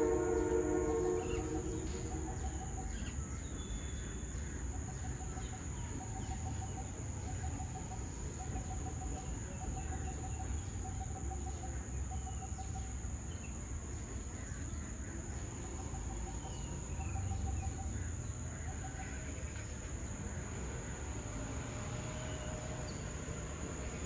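A distant train horn fading out in the first second or so over a low rumble, then a bird repeating a short, low, slightly burred call about once a second, with a break around the middle. A steady high insect whine runs underneath.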